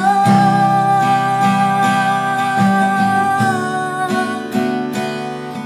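Music of a worship song: acoustic guitar strumming under a long held note that fades out about three and a half seconds in.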